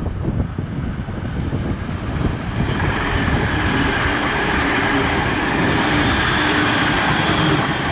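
NSW TrainLink Xplorer diesel railcar passing through the station at speed, the rumble of its engine and wheels on the rails growing louder over the first few seconds and then holding steady.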